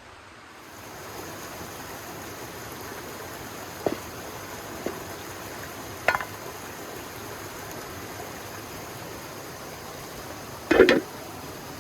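River water running steadily. A few short knocks sound over it, with the loudest, a quick double knock, near the end.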